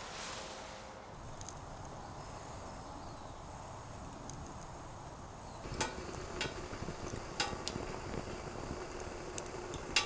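Steady low hiss of outdoor ambience, with scattered sharp clicks and ticks starting about six seconds in.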